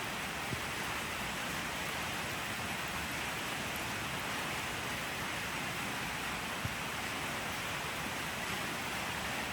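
Steady rain falling, an even hiss without a break, with a couple of faint drop ticks.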